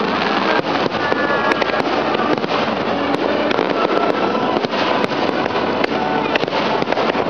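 Aerial fireworks bursting and crackling without a break, many sharp cracks and pops overlapping into a dense, continuous loud crackle.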